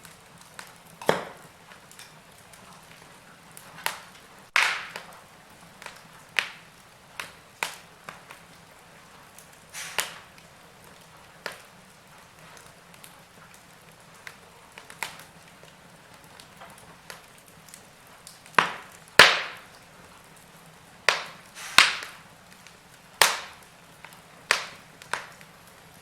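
Wood fire crackling in a fireplace: irregular sharp pops and snaps over a faint steady hiss, with a burst of louder pops about two-thirds of the way through.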